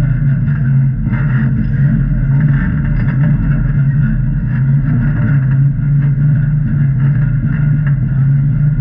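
Jeep engine running steadily, a continuous low drone that neither rises nor falls.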